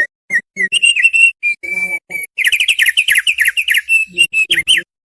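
Thick-billed heleia (opior paruh tebal) singing. It starts with a few separate short whistled chirps, then from about halfway in gives a fast run of clear down-slurred whistles that stops just before the end.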